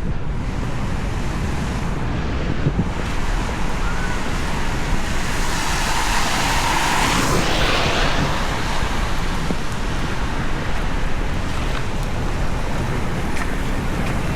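Rain on a city street with a steady traffic rumble. A vehicle passes on the wet road between about five and eight seconds in, its tyres hissing.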